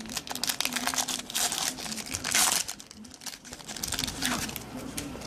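A foil trading-card pack wrapper crinkling and tearing as it is opened by hand, in irregular bursts of crackle, loudest about two and a half seconds in.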